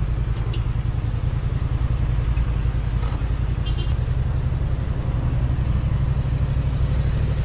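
A motor vehicle on the move: a steady low rumble with road and wind noise, unchanging throughout.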